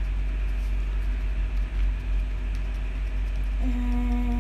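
A steady low rumble runs throughout. About three and a half seconds in, a short tone at one steady pitch sounds for about a second.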